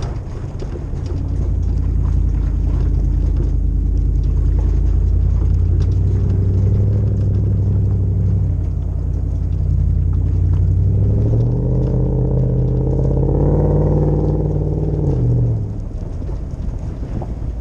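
Toyota 2UZ-FE 4.7-litre V8 with a full exhaust, rumbling at low revs as the LandCruiser drives. About eleven seconds in the revs climb in two steps under throttle, then drop away sharply near the end.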